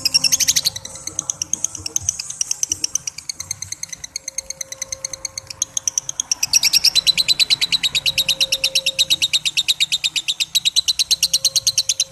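Lovebird giving its long 'ngekek' chatter: a fast, unbroken string of sharp high notes that grows louder about six and a half seconds in.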